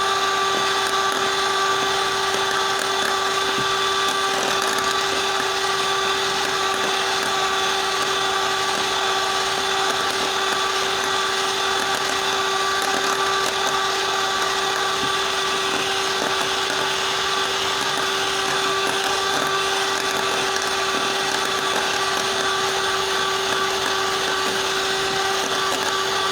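Electric mixer running steadily at one speed, its motor whining with an even tone as it whips cream toward soft peaks.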